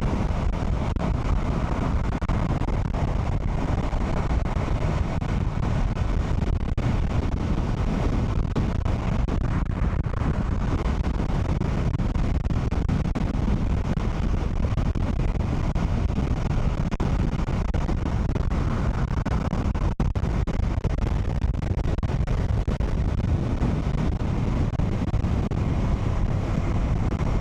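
Steady wind rush over the microphone of a motorcycle riding at speed, with the ride's low road and engine noise under it.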